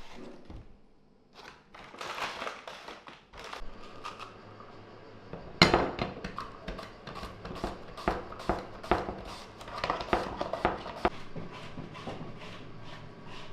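A kitchen knife cutting onions on a cutting board: a run of short, irregular knocks, with one louder knock about five and a half seconds in and quicker chopping after it.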